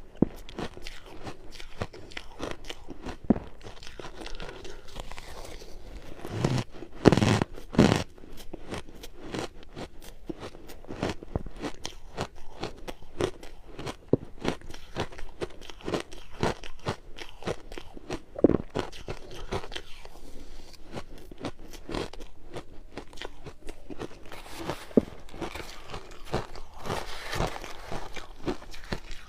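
Close-miked crunching of frozen ice being bitten and chewed: a dense, irregular run of cracks and crunches, with the loudest bites about seven seconds in.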